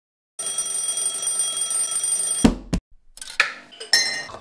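Alarm clock ringing: a loud, steady, high ring that starts about half a second in, runs for about two seconds and cuts off suddenly with a low thump. Scattered clicks and rustling follow.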